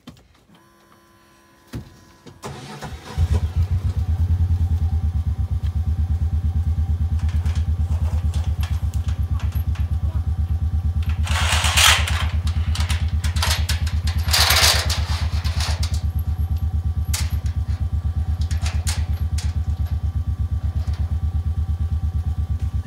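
John Deere Gator utility vehicle engine cranking briefly and catching about three seconds in, then running steadily at idle with a fast, even pulse. Two short, loud, noisy bursts come partway through.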